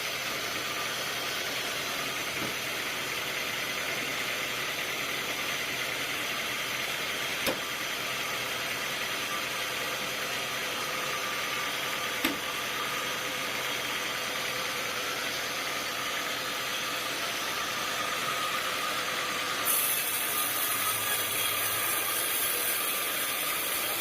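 Sawmill machinery running steadily, a motor-driven saw with a steady whine over a running noise, and two short sharp knocks midway. It turns brighter and a little louder near the end.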